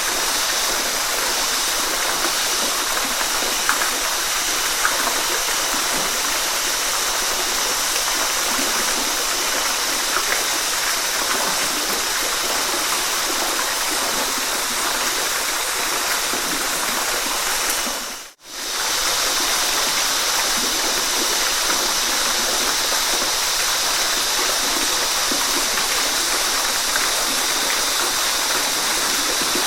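Waterfall, water rushing steadily. A little past the middle it fades briefly almost to silence and straight back in.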